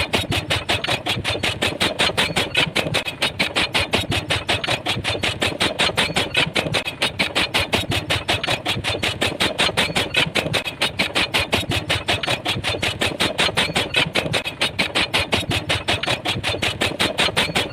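Pile driver pounding at a steady, fast rhythm of about five or six blows a second, without a break.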